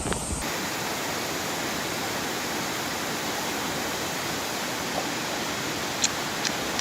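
Steady, even rushing noise that holds one level throughout, with a few faint ticks near the end.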